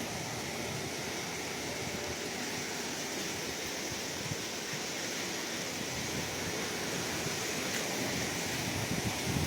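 Sea surf: a steady rush of breaking waves that grows a little louder near the end.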